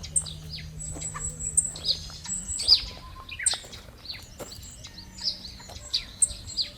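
Several birds chirping and calling: many short, sharp notes and quick falling whistles overlapping one another.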